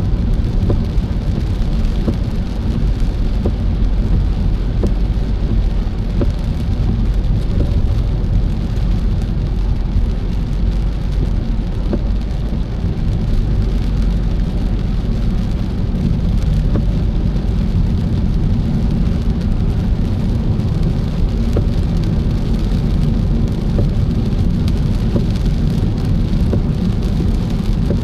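Car driving in rain: a steady low road-and-engine rumble, with the hiss of rain and scattered ticks of drops hitting the car.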